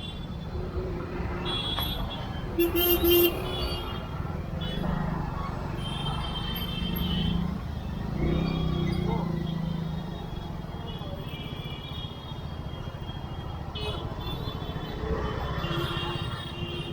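Busy market street traffic heard from a moving motorbike: a steady engine rumble under passing vehicles, with horns beeping now and then, the loudest a short blast about three seconds in, and voices of people along the street.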